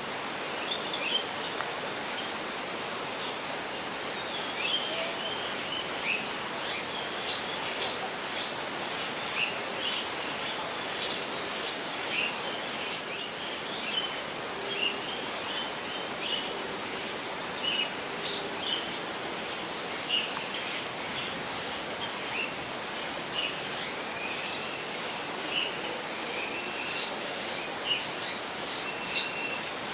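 Birds chirping, many short high calls scattered throughout, over a steady rushing noise background.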